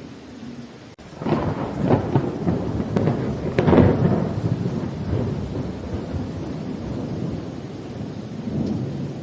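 A thunderclap over steady rain. It cracks about a second in and rolls on with a couple of louder peaks, then rumbles down over several seconds.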